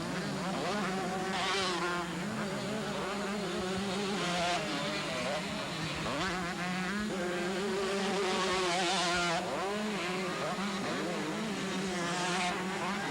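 Several 125cc two-stroke motocross bikes racing, their engines buzzing and revving up and down as the riders work through the gears. Louder surges come and go as bikes pass close.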